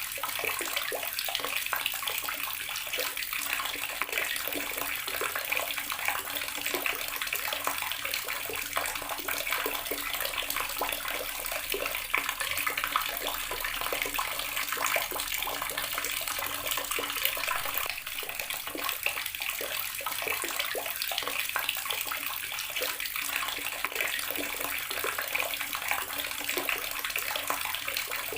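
Water running steadily from an outdoor garden tap, splashing and spattering as it falls.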